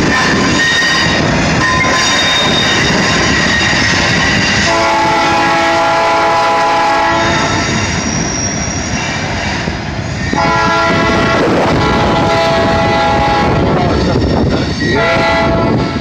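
Freight train rolling past with a thin wheel squeal, then the locomotive's air horn sounds two long blasts and a short one, the opening of a grade-crossing signal.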